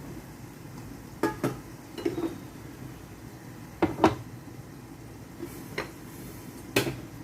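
Metal cooking utensil knocking and clinking against a pot or pan, several sharp knocks in uneven clusters over a steady low hum.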